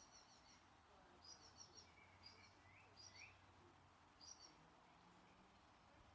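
Faint birdsong: short bursts of quick high chirps repeated about once a second, with a few brief rising whistled notes from another bird in between, over a soft outdoor hiss.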